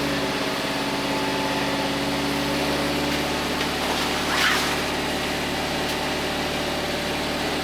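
Tractor engine idling steadily, with a short rasping noise about halfway through.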